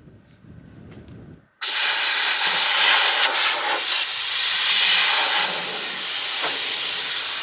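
Air hissing steadily out of the tires through a SpeedFlate multi-tire air-down system's hoses as the tires are deflated, starting abruptly about a second and a half in.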